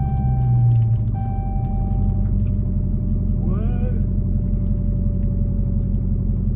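Dodge Challenger Hellcat's supercharged 6.2-litre V8 running low and steady, heard from inside the cabin. A steady electronic warning tone sounds over it for the first two seconds, breaking briefly about a second in, and a brief voice sound comes about halfway through.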